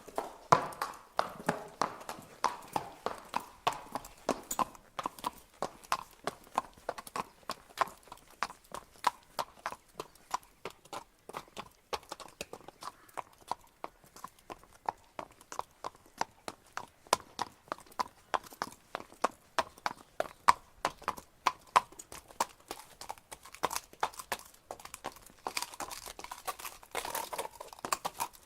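Horse walking, its hooves clip-clopping on the ground in an uneven run of several sharp knocks a second.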